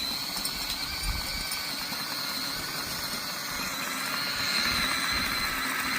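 Garden tiller running steadily, its small engine churning through hard, grassy ground.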